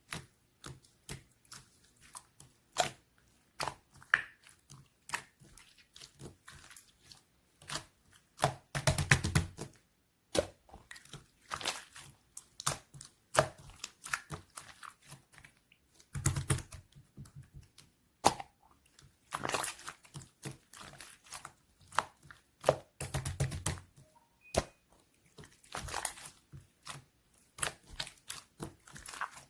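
Clear slime being kneaded and stretched by hand, giving irregular sticky clicks and small air-bubble pops, with louder bursts of crackling about 9, 16 and 23 seconds in as it is squeezed and folded.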